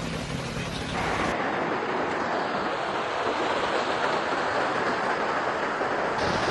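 A low engine hum under hiss, then from about a second in a steady loud rushing of heavy rain and water.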